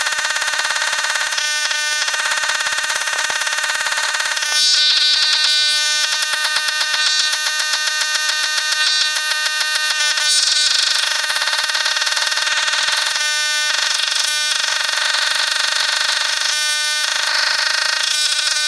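Single-cylinder Briggs & Stratton engine on a pressure washer running steadily with a harsh buzz, while its carburetor screws are adjusted to smooth the running. It gets louder and busier from about five seconds in until about eleven seconds in, then settles.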